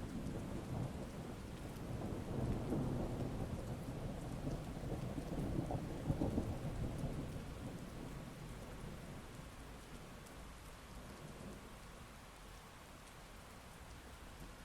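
Steady heavy rain with a long rumble of thunder that builds over the first few seconds, peaks about six seconds in, and rolls away, leaving rain alone near the end.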